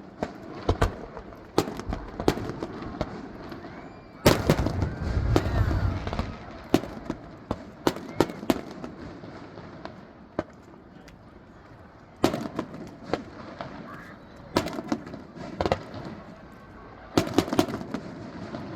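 Fireworks display: a run of sharp bangs and crackles, with a dense, heavy volley of booms about four seconds in and more volleys of bangs later on.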